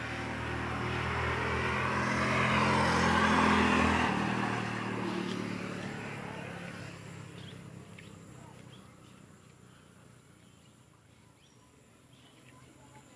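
A motor vehicle passing by: its engine and road noise grow louder for about three and a half seconds, then fade away gradually.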